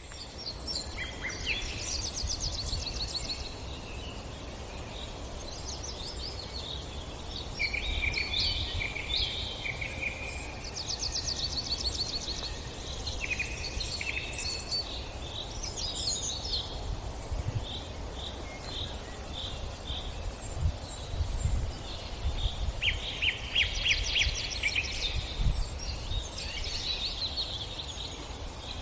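Several birds singing and calling in repeated chirps and quick trills, over a low rumble.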